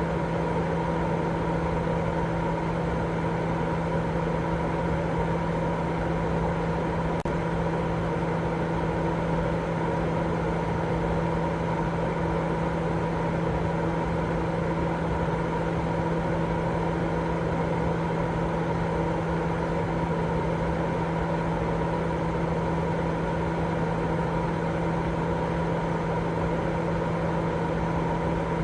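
Continuous sleep-aid 'white noise': an even, unchanging rushing noise weighted toward the low end, with a steady hum running through it. A faint tick comes about seven seconds in.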